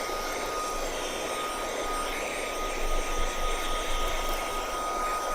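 Cordless handheld vacuum cleaner running on its max setting: a steady rush of air with a constant high motor whine, wavering a little about three seconds in.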